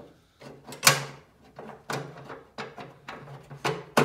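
A string of sharp clicks and knocks, about five of them, the loudest about a second in, from working the lock cylinder out of a Subaru Impreza's trunk lid and handling the lid.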